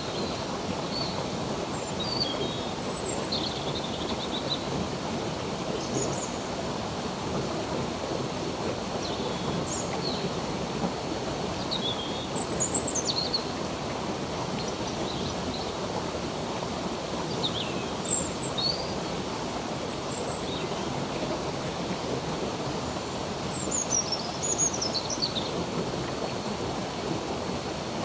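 Stream water running steadily, with birds giving short high chirps every few seconds, busiest about halfway through and again near the end.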